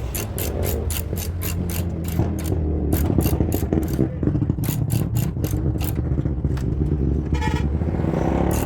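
A machine running steadily with a rapid, even clicking of about five clicks a second, like a ratcheting mechanism. Near the end a short pitched tone, like a horn, sounds briefly.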